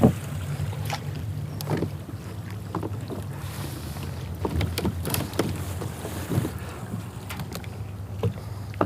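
Water slapping and lapping against a kayak's hull, with wind rumbling on the microphone and scattered light knocks and clicks from the boat and gear.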